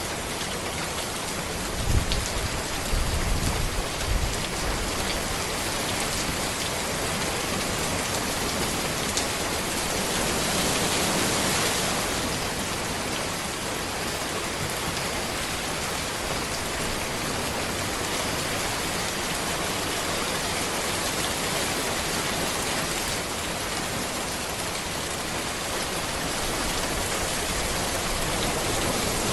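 Steady rain falling on a road, an even hiss of many drops that swells briefly about ten seconds in. A few low thumps sound about two to four seconds in.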